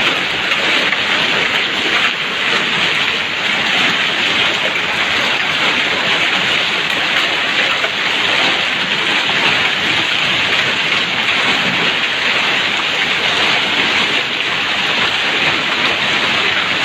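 Heavy torrential rain pouring down steadily, a dense even hiss of rain striking surfaces.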